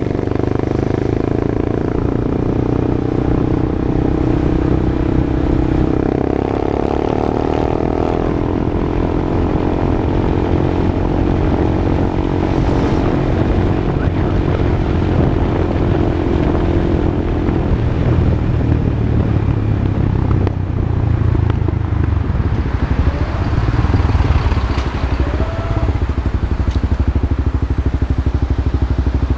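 Honda CB Twister's single-cylinder engine running through an aftermarket exhaust, a steady, loud exhaust note.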